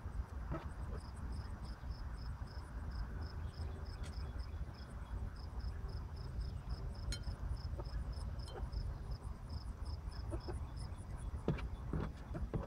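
Insects chirping in an even, high-pitched rhythm of about four chirps a second, with a few sharp taps of chickens pecking at their food.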